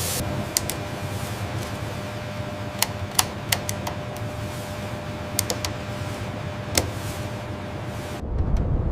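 About a dozen sharp clicks at irregular intervals over a steady mechanical hum with a faint held tone, like tool clatter in a workshop. Near the end the clicks stop and a deeper low rumble takes over.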